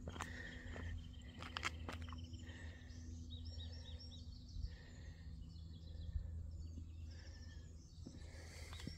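Birds calling: a short note repeated every couple of seconds and a quick run of four rising-and-falling notes about three seconds in. A few footsteps on asphalt come in the first two seconds, over a steady low rumble.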